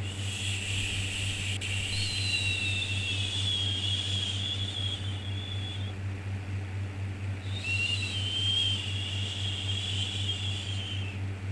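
Long, drawn-out 'shhh' shushing for soothing a baby, two shushes in a row, the first about six seconds and the second about three and a half, with a short gap between them. A steady low hum runs underneath.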